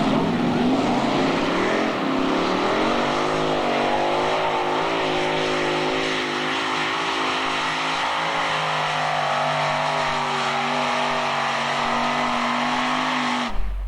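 Modified pulling tractor's engine running hard during a pull. Its pitch climbs over the first few seconds, then holds with a slight waver, and cuts off abruptly near the end.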